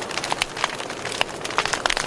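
Wood fire crackling, with many sharp irregular pops and snaps over a soft hiss.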